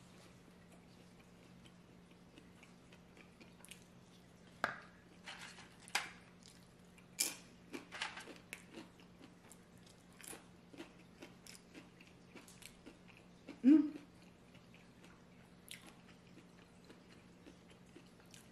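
Close-up chewing and mouth sounds of someone eating a burrito bowl, with scattered short clicks and smacks at irregular intervals, some of them a fork against the bowl. A brief low vocal hum near the end is the loudest sound, over a faint steady room hum.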